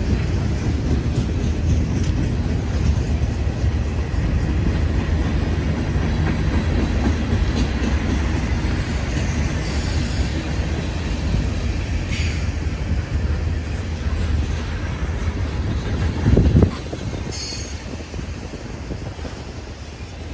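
Norfolk Southern freight train rolling past, a steady rumble of wheels on rail with a few brief high wheel squeals. A loud thump comes about sixteen seconds in, and the sound then eases off.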